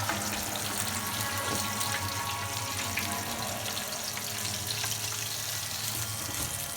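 Chicken wings deep-frying in hot oil in a pan: a steady, even sizzling hiss, with a faint steady hum underneath.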